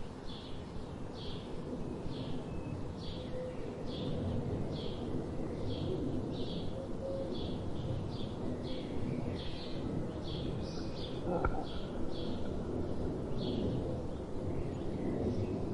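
A small bird repeating a short high call, about two calls a second, over a steady low rumble of background noise. A single click sounds about eleven seconds in.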